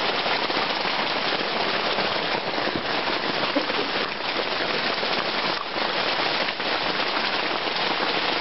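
Heavy rain falling steadily on a tent's fabric, heard from inside the tent as a dense, even hiss.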